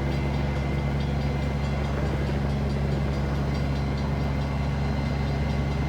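Steady low hum of a large idling engine, with no change in pitch or level.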